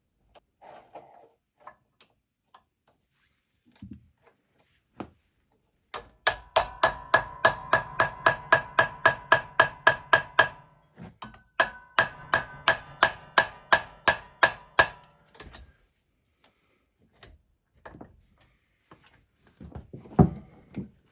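Hammer driving a ground-down steel tool into a stubborn bolt head to get a grip on it: two runs of rapid ringing metal-on-metal blows, about five a second, with a short break between. Lighter taps come before, and one louder knock comes near the end.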